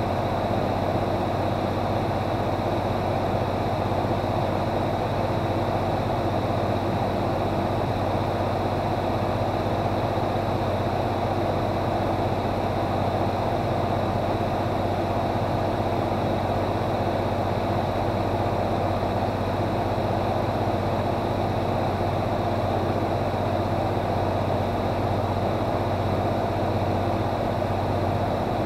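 Aircraft engine droning steadily as heard from inside the aircraft on approach to land, with a thin high steady whine above it.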